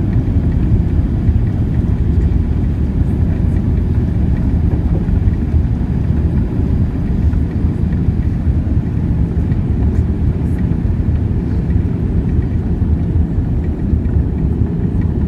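Steady low rumble of a Boeing 787 airliner heard inside the passenger cabin: engine and airflow noise at a constant level.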